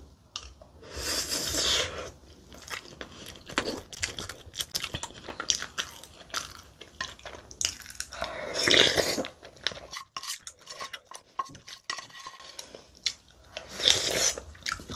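Close-miked eating sounds of a person chewing mouthfuls of spicy fermented-seafood bibimbap: many small wet mouth clicks, with louder noisy bursts as bites are taken about a second in, around eight seconds and near the end.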